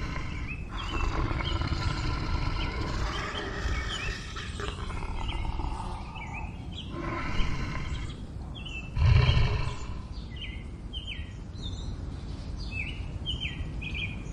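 A large animal growling deeply, with a loud roar about nine seconds in. Birds chirp in short notes throughout, most often in the second half.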